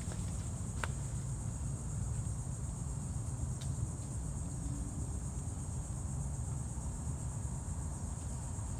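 Steady high-pitched drone of insects, cricket-like, over a constant low rumble, with one faint click about a second in.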